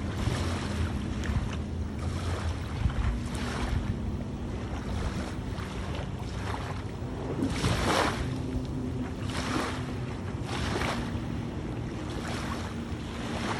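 Kayak paddle strokes swishing through the water about every second and a half, with wind buffeting the microphone and a steady low drone underneath.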